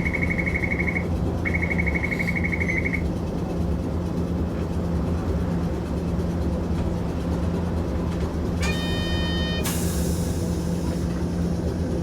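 Interior of a Hiroshima Electric Railway 650-type tram standing still, with a steady low hum. A buzzer sounds twice in the first three seconds, and about nine seconds in a short tone is followed by a sudden hiss of released air.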